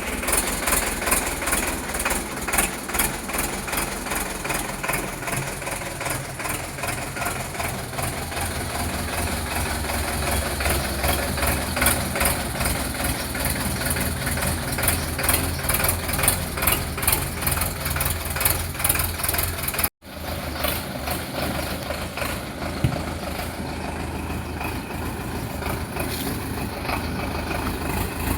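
Sonalika DI 750 tractor's diesel engine running steadily with a rapid, even clatter; the sound drops out for an instant about twenty seconds in.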